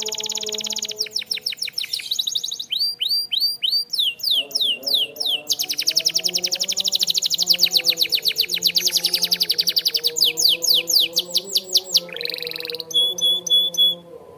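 Domestic canary singing a fast, loud song of rapid trills, switching from one repeated note to another every second or two, with a quick rising sweep near the end.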